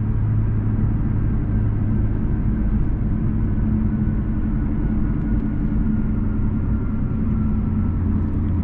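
Infiniti Q50's twin-turbo V6 with a resonated lower downpipe, its exhaust heard from inside the cabin as a steady low drone while cruising at an even engine speed.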